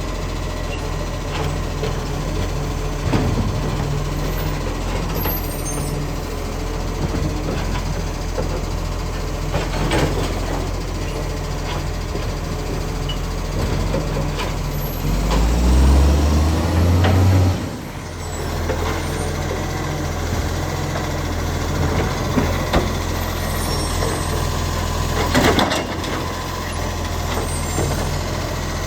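International ACCO garbage truck's diesel engine running, with an exhaust leak. About halfway through it revs up for a couple of seconds, then drops back sharply, with a few brief sharp noises at other points.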